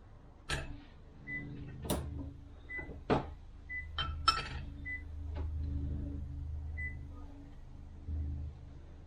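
Transmission clutch discs and steel plates being handled on a workbench: a handful of sharp metallic clicks and knocks as parts are picked up and set down, over a low steady hum.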